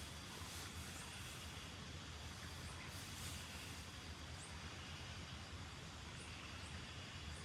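Steady hiss of rain with a low rumble underneath, and a few faint, short, high chirps scattered through it.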